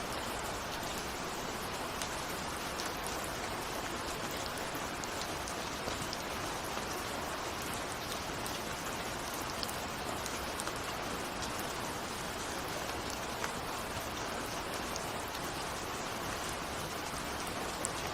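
Steady rain falling, an even hiss with scattered individual drop ticks, no thunder.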